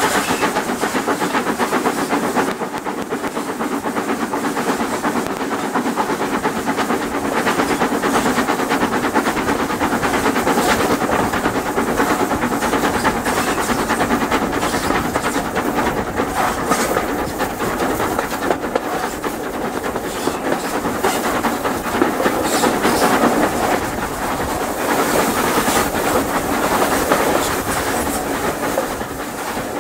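A train running along the line, its wheels clicking rapidly and steadily over the rails, easing off slightly near the end.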